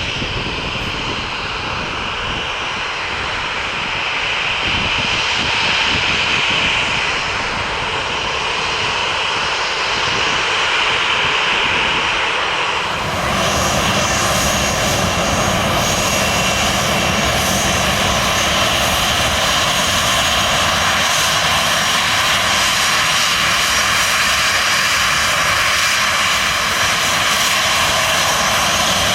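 Airliner engines running steadily with a high whine. About 13 seconds in, the sound changes abruptly to a fuller, slightly louder engine noise with several steady tones.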